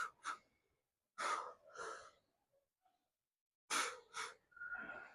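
A man breathing hard after lifting weights: sharp, heavy puffs of breath in quick pairs, with a pause between pairs. The last breath near the end is voiced, like a short groan.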